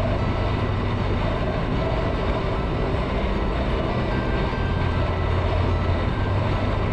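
Motorcycle riding at highway speed: steady engine drone under a loud rush of wind on the microphone.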